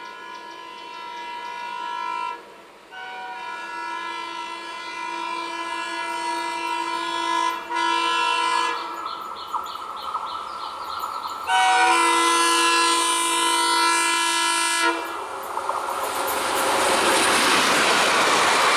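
Diesel locomotive's multi-note horn sounding in long, held blasts with brief breaks as the train approaches. From about two-thirds of the way in, the steadily louder noise of the passenger coaches' wheels running over the track as they pass close by takes over.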